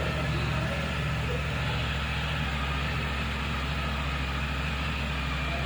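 Triumph Tiger 900 Rally Pro's three-cylinder engine idling steadily.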